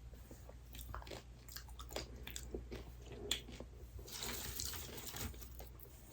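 Close-miked eating: a person biting and chewing snack food with scattered crisp clicks and crunches, and a denser crackle lasting about a second near the end.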